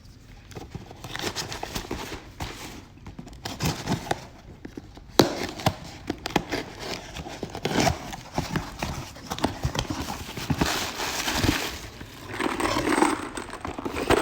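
A cardboard shipping box being opened by hand: irregular knocks, scrapes and rustling of the box and packaging, with a sharp knock about five seconds in.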